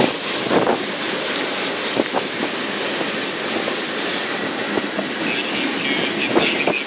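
Freight train cars rolling past close by: a steady rumble and rattle of wheels and car bodies, with sharp wheel clacks every second or two.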